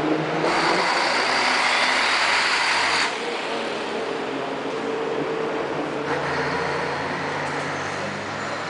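Diesel engines of racing trucks running on the circuit. The noise is loudest and fullest for the first few seconds, drops suddenly about three seconds in, and then continues more evenly.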